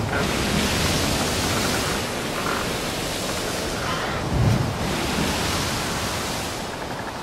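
Steady rushing noise of wind and sea, with low buffets on the microphone right at the start and again about four and a half seconds in.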